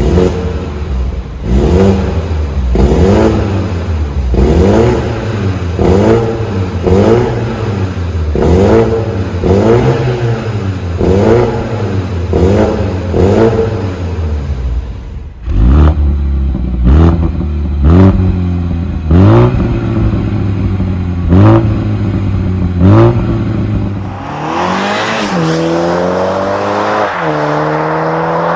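Toyota GR Supra's 2.0-litre BMW turbocharged four-cylinder engine and exhaust revved in quick blips, about one a second, each rise and fall in pitch topped by a sharp crack. Near the end it pulls in a long rising run, with one gear change partway through.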